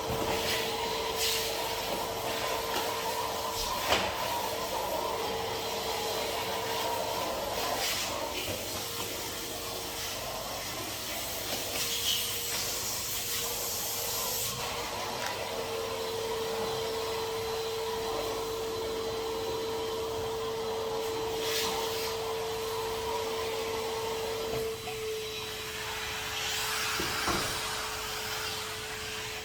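Henry HVR200 620 W cylinder vacuum cleaner running steadily with a constant motor whine, the rushing suction rising and falling as the crevice tool is worked along edges. A few sharp knocks of the tool come through, the loudest about four seconds in.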